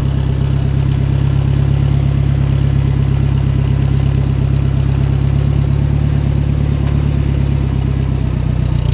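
Small farm tractor's engine running steadily with a fast, even beat, heard from the driver's seat; its note shifts slightly near the end.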